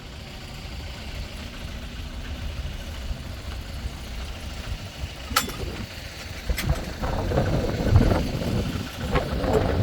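Caterpillar 950H wheel loader's diesel engine idling with a low, uneven rumble. A sharp click comes about five seconds in, and louder bumps and rustling come near the end.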